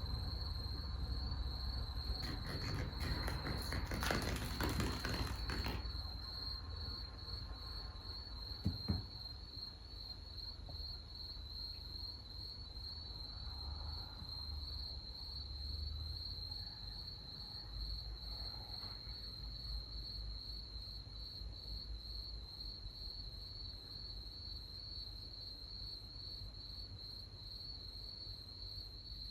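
Night insects trilling steadily in one continuous high tone. A few seconds of rustling come near the start, and a single sharp knock follows about nine seconds in.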